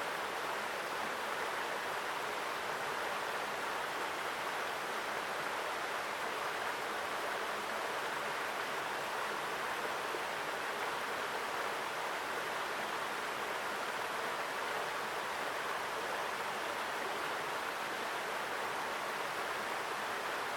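Forest mountain stream flowing strongly over rocks: a steady, even rush of water.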